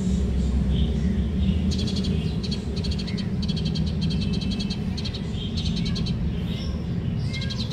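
Small birds chirping in rapid high trills, in several bouts, over a steady low rumble.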